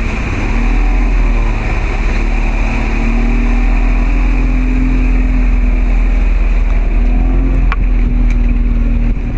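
Motorboat engine running steadily, a low drone at a nearly constant pitch, over rushing wind and water noise.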